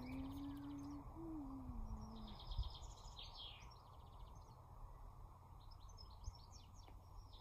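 Small birds chirping and giving quick trills, over a faint steady background hiss. A low smooth tone rises and then falls in the first two seconds.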